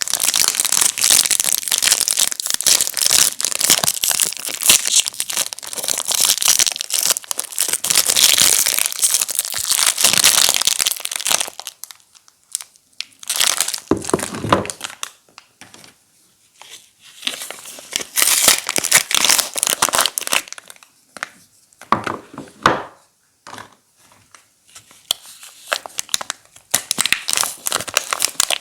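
Soap wrappers being handled and unwrapped, crinkling and tearing: a dense run of crinkling for about the first eleven seconds, then scattered short crinkles with quiet pauses between them.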